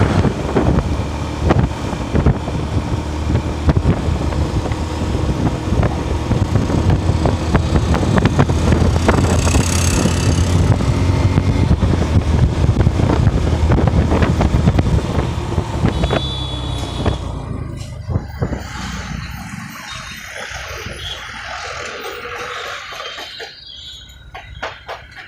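Yamaha FZS V3's 149 cc single-cylinder engine running at a steady road speed while riding, with wind noise on the microphone. The sound drops in level and thins out over the last several seconds.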